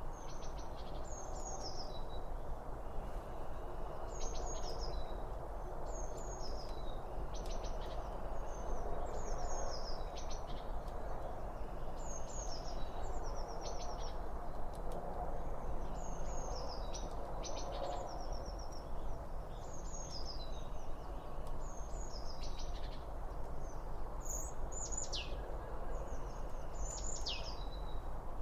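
Songbirds chirping repeatedly in short, high calls, with a few long downward-sliding whistles near the end, over a steady rushing background noise.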